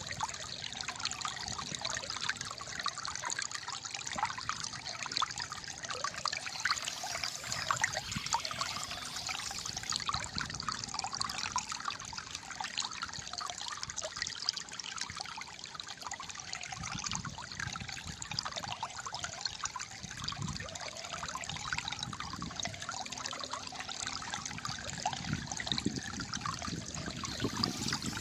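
Gently flowing water trickling and gurgling, like a small stream running over stones. It is steady throughout, with deeper gurgles now and then in the second half.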